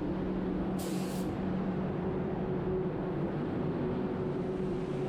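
Steady low mechanical hum of workshop machinery running, with one short hiss from a DeVilbiss GTI Pro Lite spray gun about a second in, a brief trigger pull while clear-coating a panel.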